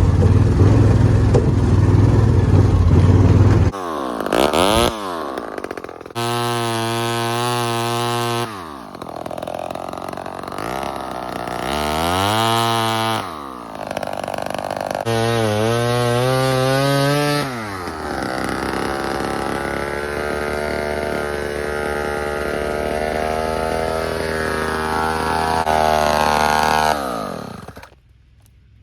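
Old Homelite XL-12 two-stroke chainsaw cutting wood. After a loud low engine rumble in the first few seconds, it revs up and back down three times, then runs steadily at high speed for several seconds before shutting off near the end.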